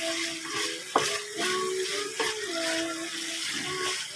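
Chicken pieces sizzling in oil in a wok as they are stirred with a spatula. There are sharp knocks of the spatula against the pan about one second and two seconds in.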